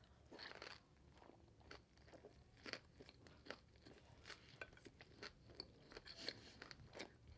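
Close-up mouth sounds of chewing a nem nuong fresh spring roll filled with pork and crisp vegetables: faint, irregular crunches and wet mouth clicks.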